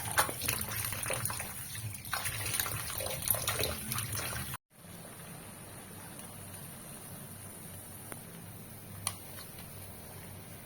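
Water running and splashing with small clattering knocks, then after an abrupt cut a quiet steady room hiss with one sharp click near the end.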